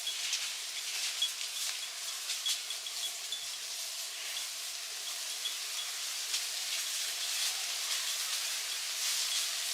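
Steak sizzling over a wood fire: a steady hiss with scattered small crackles and pops.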